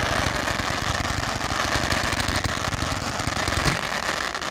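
Fireworks crackling in a dense, rapid rattle, stopping suddenly near the end.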